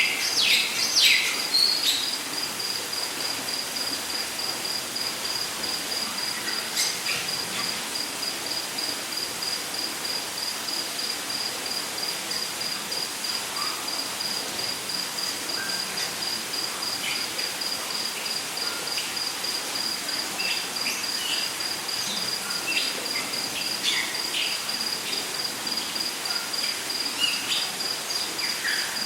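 Rainforest ambience: an insect trilling in fast, even pulses at one high pitch, over a steady hiss. A cluster of loud bird chirps comes right at the start, and scattered short bird calls follow later.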